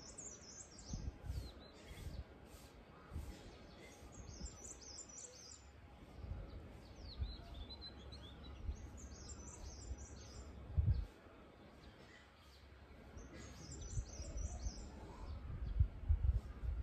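Small birds chirping in several short bouts of quick, high twitters, over irregular low rumbles.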